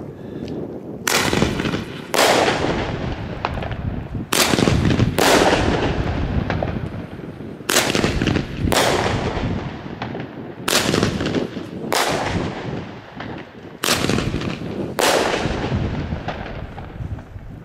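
Consumer fireworks going off in five pairs of loud bangs: in each pair a launch shot is followed about a second later by a report in the sky. Each bang trails off in a long echo.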